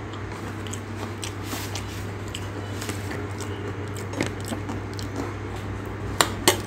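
Close-up chewing of spicy aalu nimki: soft crunching and wet mouth sounds over a steady low hum, with two sharp clicks near the end.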